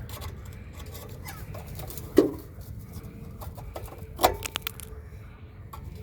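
Two sharp knocks with a brief ringing, about two seconds apart, with a few lighter clicks, over a low steady rumble.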